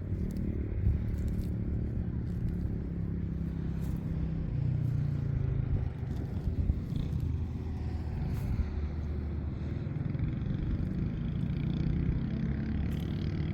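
An engine running steadily with a low hum that shifts a little in pitch near the middle, with a few light knocks.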